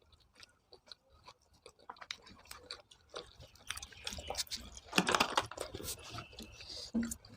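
A person chewing food close to the microphone, with small scattered mouth clicks and a denser burst of chewing about five seconds in.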